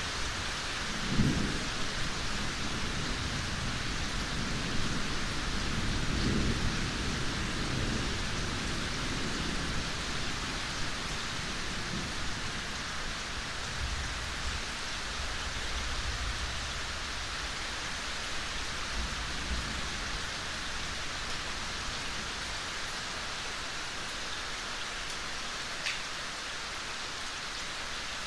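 Gentle rain falling steadily in a forest, an even hiss of drops. A few low rumbles come through the first half, then fade.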